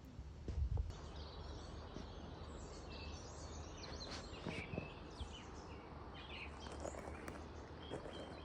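Small birds chirping and twittering in short, scattered calls over a steady low outdoor rumble, with a brief low thump about half a second in.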